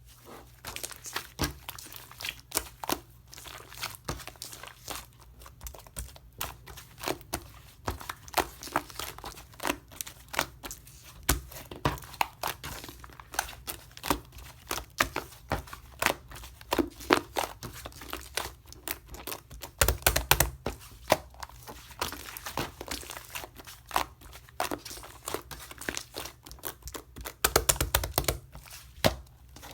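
Clear slime being squished and stretched by hand: a dense run of small sticky pops and crackles, with louder clusters of pops about twenty seconds in and near the end.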